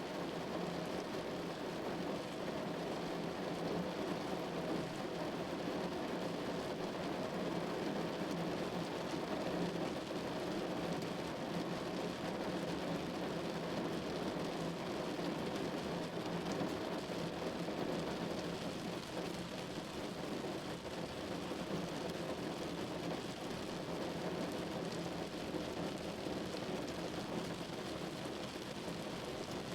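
Steady rain falling: an even, continuous hiss with no single drops or other sounds standing out.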